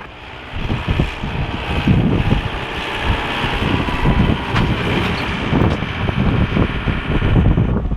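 Tractor engine running, mostly covered by heavy wind buffeting on the microphone, an uneven low rumble that comes up about half a second in.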